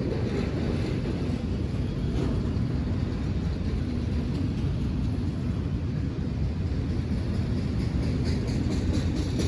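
A train rumbling past, steady and low, with a few faint clicks.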